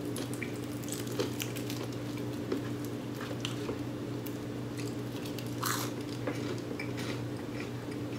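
Close-up chewing and biting of crispy fried chicken, with scattered crunches and small mouth clicks, over a steady low hum.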